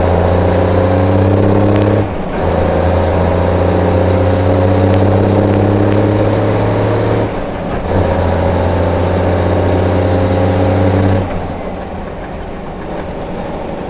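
1955 Freightliner's 262 hp Cummins diesel heard from inside the cab at full throttle, its pitch climbing steadily through each gear with brief dips at the shifts about 2 and 7.5 seconds in. About 11 seconds in the engine lets off and drops to a lower, quieter note.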